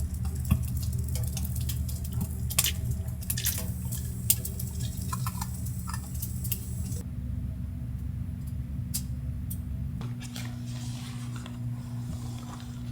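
Scattered water drips and light ticks over a steady low hum, with the sound changing abruptly twice partway through.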